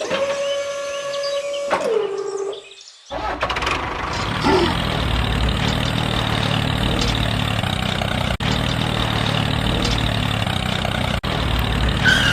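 Small motor of a homemade mini tractor. A steady whine drops in pitch and stops about two seconds in, then after a short pause the motor runs steadily with a noisy hum.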